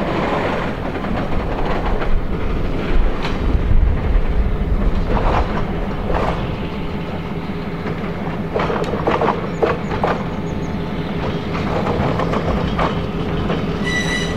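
Diesel-hauled train rolling slowly along the track: a steady low engine hum with irregular clicks and knocks of wheels over rail joints, and a short high squeal near the end.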